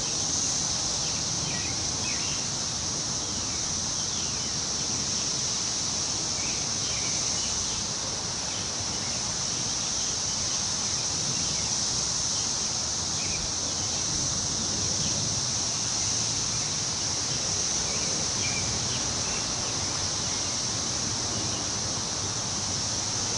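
Wind rustling through tree leaves over a constant high-pitched insect drone, with scattered short bird chirps throughout.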